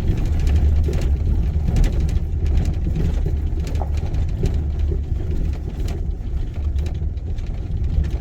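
Steady low rumble of a vehicle driving, engine and road noise heard from inside the cab, with a few faint ticks over it.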